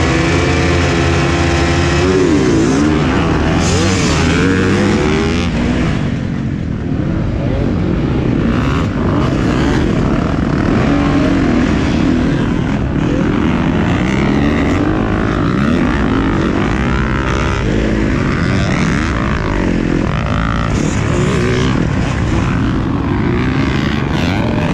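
Dirt bike engines racing, their pitch rising and falling as riders rev and shift, with several bikes often heard at once.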